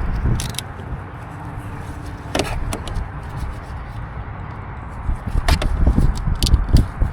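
Hands-on work noises: scattered sharp clicks and knocks over a low rumble, as the car's wiring and connectors are handled.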